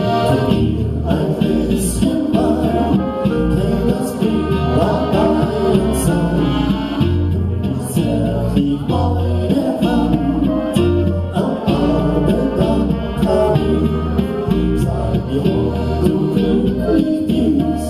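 Live band music with singing over a steady bass line, with cymbal accents now and then.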